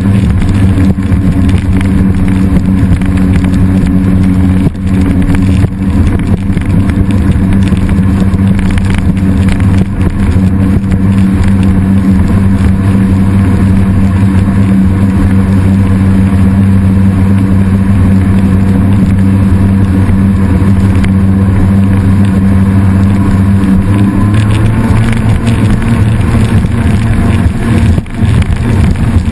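An engine running loud and steady, its pitch stepping up a little about 24 seconds in.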